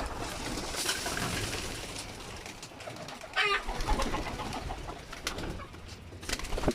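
Racing pigeons cooing in a loft, with a short, higher chirping call about three and a half seconds in.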